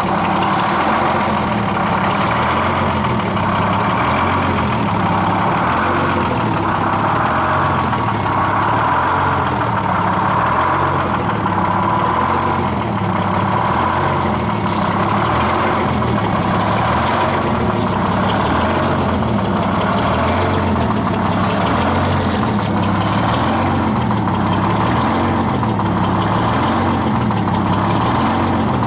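Detroit Diesel 6-71N two-stroke inline-six running at a steady idle.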